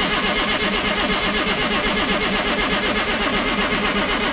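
1987 Ford L8000 turbo diesel being cranked over on its starter motor, a steady rhythmic cranking that does not catch and run. The engine is not firing after 16 years parked, although fuel has reached the filter.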